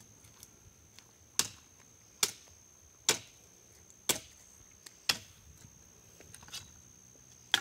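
Wood being chopped: five sharp blows about a second apart, a pause, then another blow near the end, over a steady high-pitched whine.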